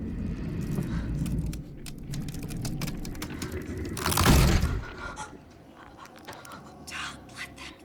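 Film-trailer sound design: a low rumbling drone with scattered clicks and crackles over it, and one loud hit about four seconds in before it falls quieter.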